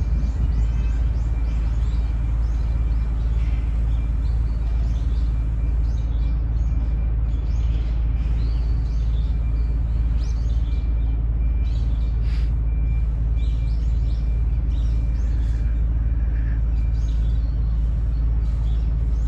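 Small birds chirping on and off over a steady low rumble.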